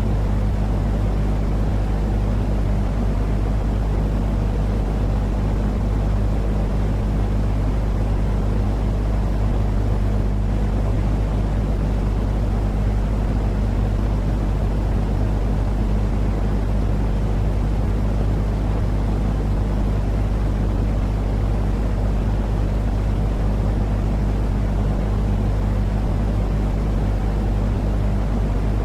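Steady, unbroken low rumbling noise with a constant low hum underneath, a continuous sleep-aid noise track of the kind played to soothe crying, colicky babies.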